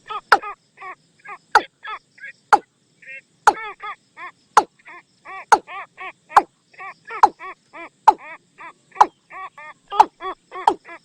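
Watercock calls used as a decoy: a rapid, steady series of short, arched notes at about three or four a second, with a louder, sharp note cutting in roughly once a second.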